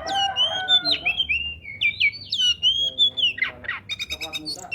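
Oriental magpie-robin singing loudly: a varied run of clear whistled notes that glide up and down, mixed with quick chattering phrases, with a lower, rougher call about three seconds in.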